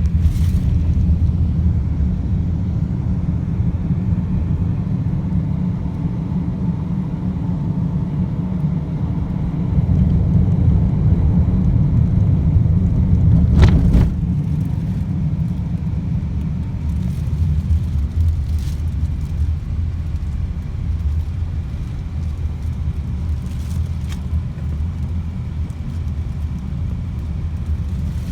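A car driving, heard from inside: a steady low rumble of road and engine noise. There is one sharp knock about 14 seconds in and a few faint ticks later.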